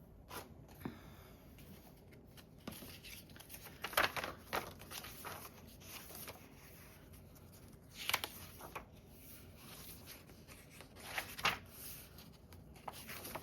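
Paper being handled: rustling and crinkling in three short flurries, about four, eight and eleven seconds in, as pockets and journal pages are moved about.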